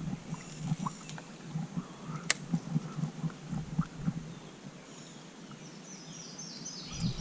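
Soft, irregular low knocks with one sharp click a little over two seconds in, then a bird chirping repeatedly near the end.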